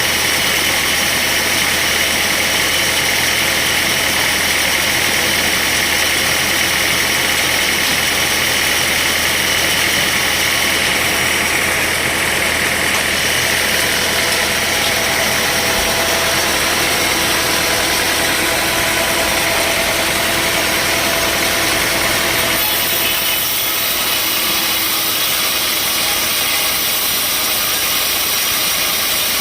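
Sawmill machinery running steadily, a constant loud engine-like noise; about 23 seconds in its tone shifts, with less low rumble and a thin high whine appearing.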